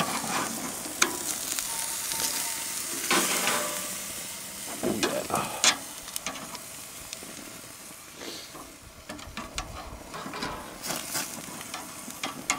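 Steaks sizzling on a barbecue grill, a steady hiss, with scattered sharp clicks and scrapes of metal tongs working the meat on the grate.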